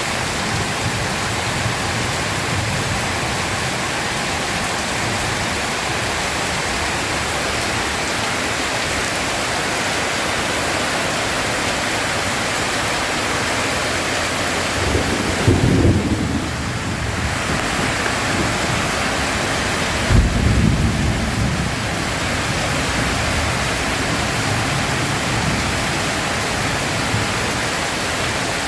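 Heavy steady rain, with two rolls of thunder rumbling through it about halfway in, a few seconds apart, the second starting with a sharper crack.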